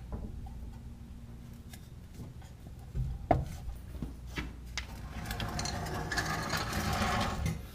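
Hand-tool work on a car's underside: a sharp metal clink about three seconds in, then a few seconds of rasping, rubbing noise that grows louder near the end.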